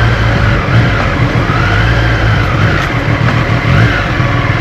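Motorcycle engine running on the move, its higher note wavering up and down a little, under a steady rush of wind noise.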